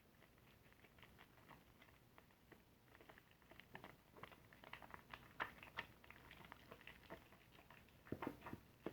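Soapy car-wash sponge being worked and squeezed, its lather giving faint, irregular wet crackles and clicks. They grow busier from about three seconds in, with a louder cluster near the end.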